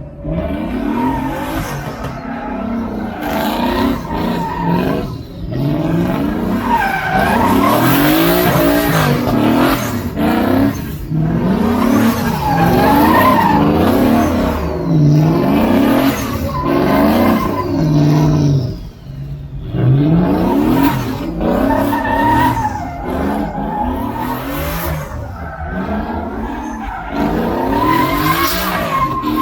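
Truck engine revved hard, its pitch climbing and falling over and over, with a brief drop about 19 seconds in.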